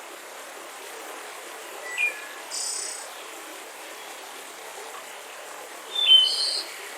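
Mountain river rushing steadily, with birds chirping over it: short chirps about two seconds in and a louder burst of calls near the end.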